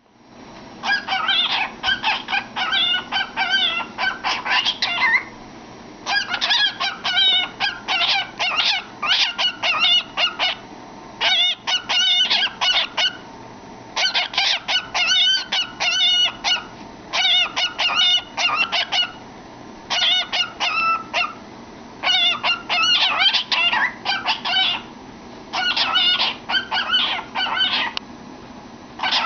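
Cockatiel singing and chattering with its head inside a cardboard tube: quick warbling whistles and chirps in phrases of one to three seconds, broken by short pauses.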